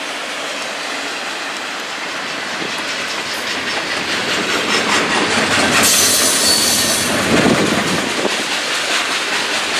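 Freight cars rolling past at speed, their wheels clattering steadily over the rail joints, growing slightly louder. About six seconds in a brief high wheel squeal rises over the clatter.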